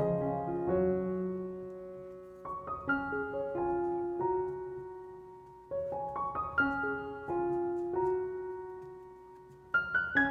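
Background solo piano music: slow phrases of a few notes that start roughly every three seconds, each note left to ring and fade.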